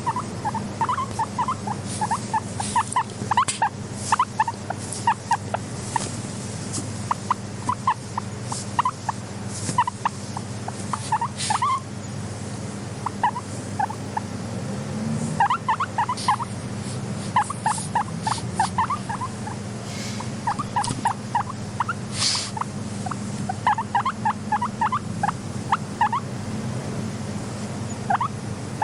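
Guinea pig giving quick runs of short squeaking chirps, in bursts separated by brief pauses, over a steady low hum.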